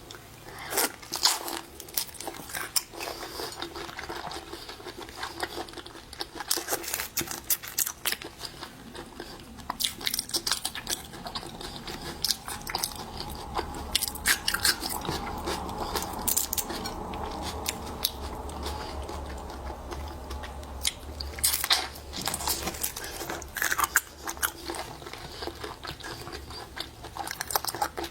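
Close-miked eating of seafood: repeated crunchy bites and chewing, with sharp crackling clicks. A steadier low background noise rises in the middle, from about halfway through for several seconds.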